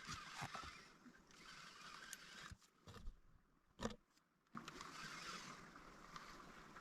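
Near silence: a faint hiss of outdoor background with a few soft knocks and clicks, and a brief dead-quiet gap in the middle.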